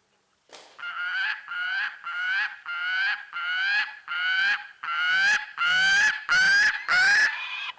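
Female gyrfalcon calling as she comes in to the nest carrying prey: a run of about a dozen harsh, slightly rising calls, about two a second, growing louder toward the end.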